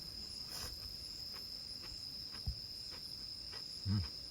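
Crickets or other night insects singing as one steady, unbroken high-pitched chirr. Faint scattered clicks sound over it, and a brief low thump comes near the end.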